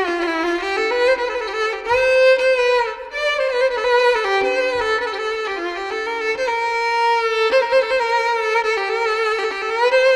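Background music: a single melody on a violin, with notes that slide from one pitch to the next.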